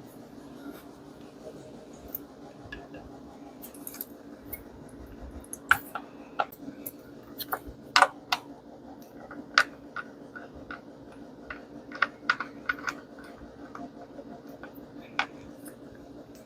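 Scattered light clicks and scrapes of small metal tools and parts being handled, irregular and a few seconds apart, over a steady low hum.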